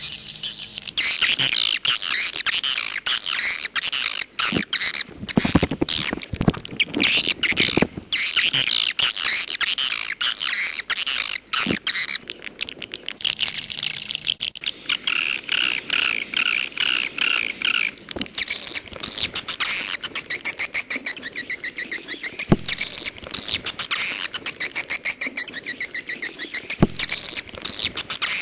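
Swiftlet calls: many edible-nest swiftlets twittering in dense, fast-pulsed chirp trains that overlap without a break, the kind of swiftlet sound played to draw birds into a nest house, with a few sharp clicks.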